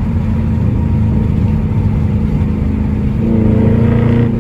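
Dodge Charger Scat Pack's 392 Hemi V8 running steadily on the road. It swells louder for about a second near the end, as with a little more throttle.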